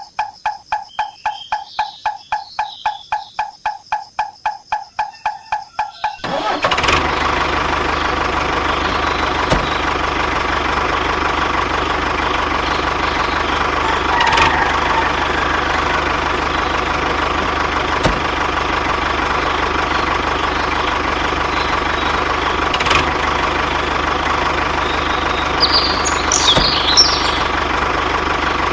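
Rapid pulsing about four to five times a second, then about six seconds in a tractor engine catches abruptly and runs steadily at idle.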